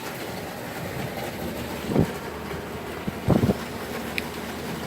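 Frigidaire 5000 BTU window air conditioner running steadily, with water pouring out of the unit. Two short knocks about two and three and a half seconds in.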